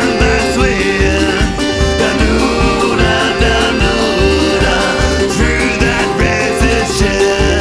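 Folk punk song, banjo and accordion playing over a steady driving beat.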